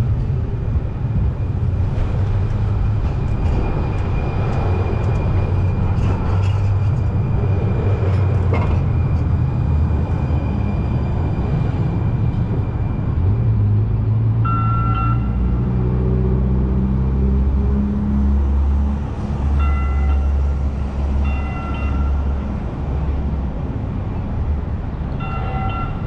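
Electric light rail train pulling away over a steady low rumble: its motor tone rises in pitch from about halfway through, and short bright ringing tones sound about four times in the second half.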